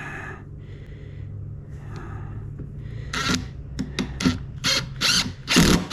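A power driver sending a screw into wood in a string of short trigger bursts, the last burst near the end the longest and loudest.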